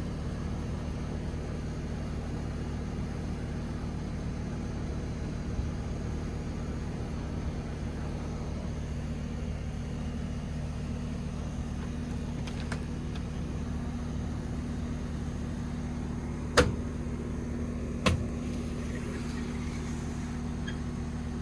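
Steady low mechanical hum with a few fixed tones, with two sharp knocks about a second and a half apart, near the end.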